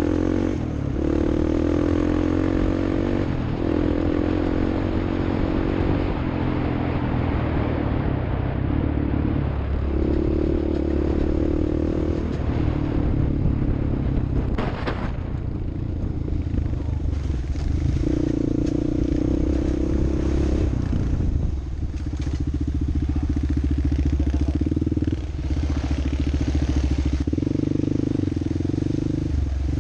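An off-road vehicle's engine running under load throughout, its revs falling and climbing again several times, with a knock about halfway through.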